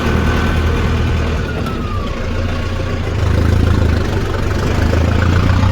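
Tractor's diesel engine running steadily, getting a little louder about halfway through.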